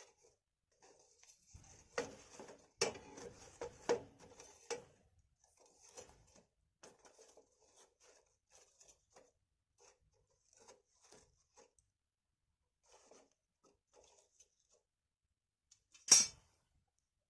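Wood fire crackling: scattered faint crackles, a cluster of louder pops about two to five seconds in, and one sharp pop near the end.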